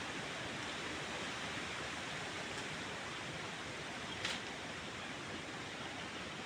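Steady rush of running water from a forest stream, with one short click about four seconds in.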